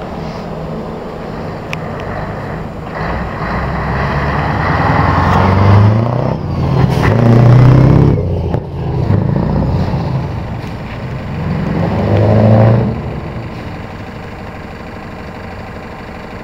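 Scania 143M 420 V8 truck engine pulling away hard: the revs climb and drop off about three times as it shifts up, then the sound settles to a steadier, quieter engine note near the end.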